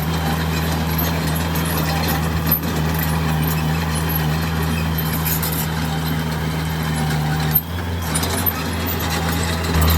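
Small bulldozer's diesel engine running steadily with a low hum, with scattered clicks and knocks from the machine at work and a brief sharper knock about seven and a half seconds in.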